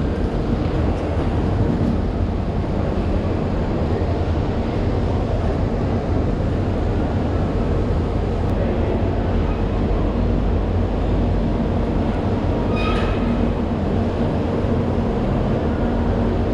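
Steady low rumble of passenger trains standing at a station platform with their engines running. A short high-pitched squeal comes about thirteen seconds in.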